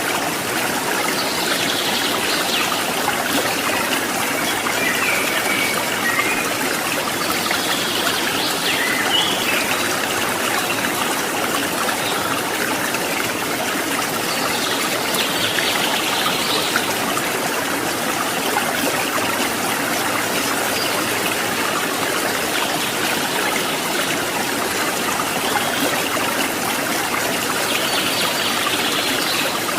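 Steady rush of flowing water from a forest mountain stream or waterfall, running evenly.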